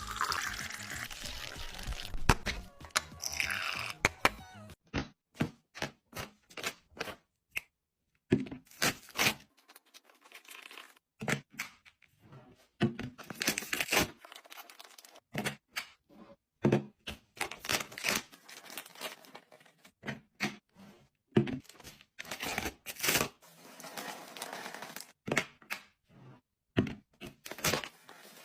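Packaged groceries and storage containers being handled: packaging rustling and tearing for the first few seconds, then a long run of separate clicks and knocks as items and containers are set down and handled.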